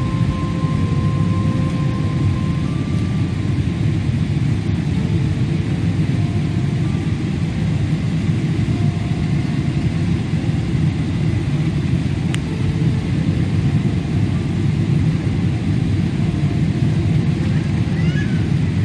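Steady airliner cabin noise: the jet's engines and rushing air heard from inside the passenger cabin as a loud, even rumble.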